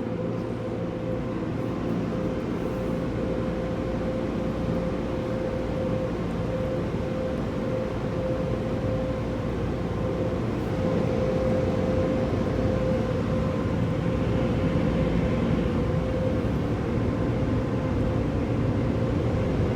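Mark VII car wash dryer blowers running steadily, heard from inside the car: a constant rush of air with a steady whine.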